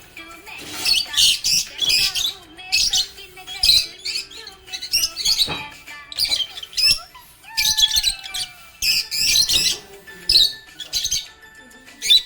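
Budgerigar chirping in repeated clusters of high, quick chirps about once a second, over background music with held tones.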